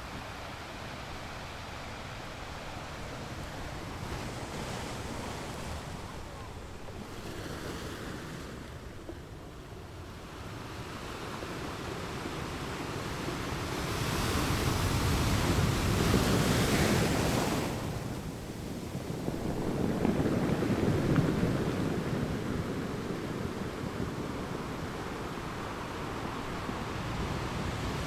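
Ocean surf: a steady wash of waves, swelling into two larger breakers in the second half.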